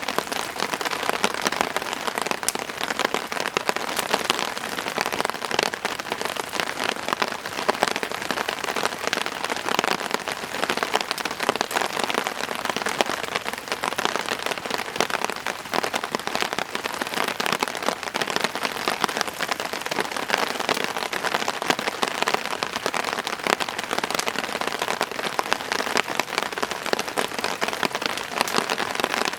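Steady rain falling, a dense, even patter of many drops hitting surfaces.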